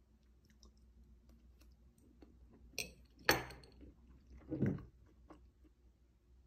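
Close-up chewing of a chewy scotch-butter bar: soft, sticky mouth noises and small clicks. About three seconds in, a sharp clink with a short ring as a metal fork is set down on a porcelain plate, the loudest sound here.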